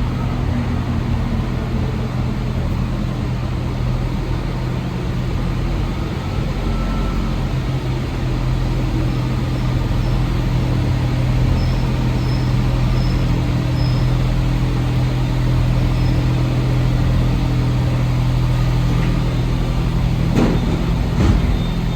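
Steady low hum inside an Alstom NS-74 metro car standing at a station, from the train's on-board equipment. A couple of sharp knocks come near the end.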